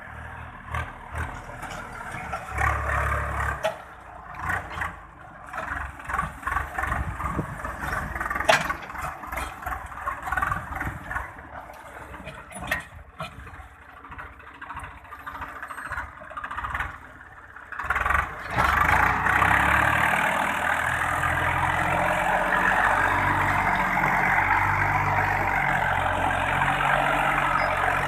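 Swaraj 963 FE tractor's diesel engine running under working load. It is uneven and fluctuating at first, then about two-thirds of the way through it becomes a steadier, louder run with a wavering low drone.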